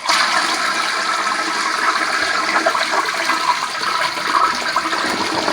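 Toilet flushing: a loud, steady rush of water.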